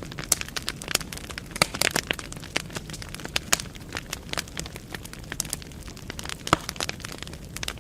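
Wood fire burning in a fireplace: logs crackling and popping irregularly, with sharp snaps over a steady low hiss.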